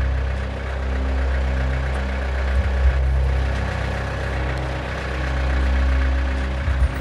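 Tractor engine idling steadily with a low rumble, with a couple of brief thumps partway through and near the end.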